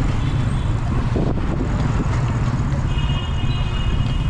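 Steady rumble of wind and road noise while riding a bicycle among traffic. A thin, high, steady tone sounds for about a second near the end.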